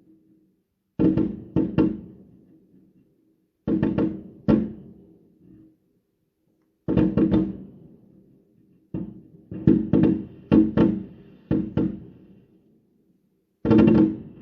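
Fireworks going off in a series of loud bangs, in groups of two or three every few seconds, with a quicker run of about seven around ten seconds in; each bang has a short echoing tail.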